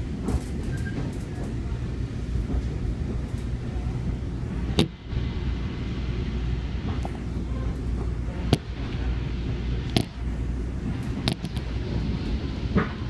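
Long Island Rail Road M7 commuter train running, heard from inside the car: a steady low rumble, with about five sharp clacks as the wheels cross rail joints and switches.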